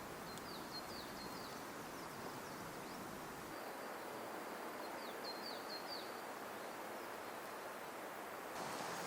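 A small bird calling in two quick runs of short, high, down-slurred notes, about a second in and again in the middle, over a steady rushing outdoor background.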